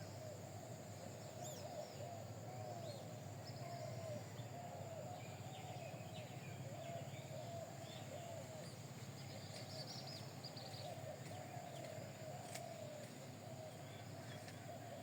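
Birds calling: a continuous run of rapid, warbling notes with faint higher chirps above them, over a steady low hum.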